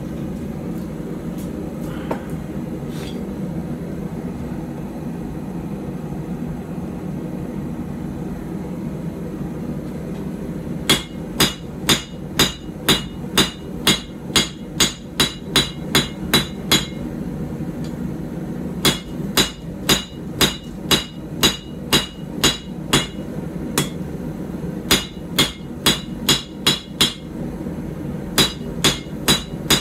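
Hand hammer striking a hot puukko blade on an anvil in runs of steady blows, about two a second, each with a short metallic ring, broken by brief pauses. For the first ten seconds or so there is only a steady background hum before the hammering starts.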